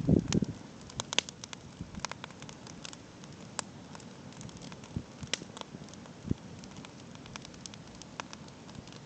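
Campfire crackling: irregular sharp snaps and pops over a steady low hiss. A brief low-pitched thump comes right at the start.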